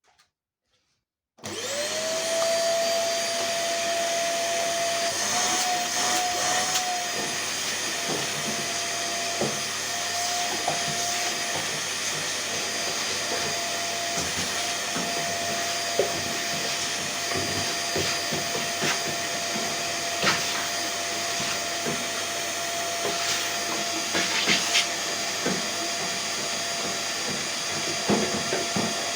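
Vacuum cleaner switched on about a second and a half in, its motor spinning up within a moment and then running steadily, with occasional short knocks.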